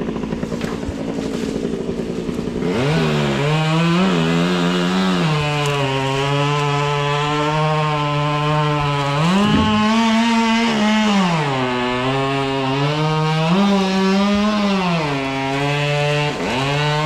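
Two-stroke chainsaw opened up to full throttle about three seconds in. Its pitch steps down as it bogs under load in the cut and jumps back up twice when it runs free, then it drops off near the end.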